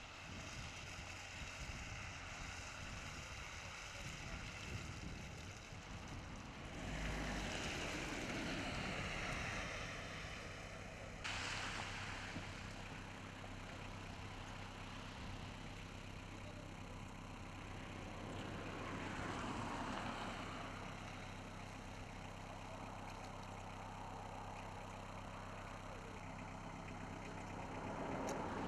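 Road vehicle engines idling with a steady low hum while traffic passes; a louder pass builds up about a quarter of the way in and cuts off suddenly, and a softer one follows later.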